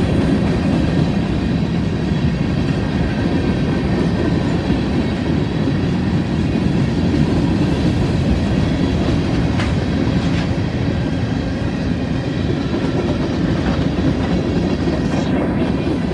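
A CSX freight train's covered hoppers and boxcars rolling past close by, their steel wheels on the rails making a loud, steady rumble.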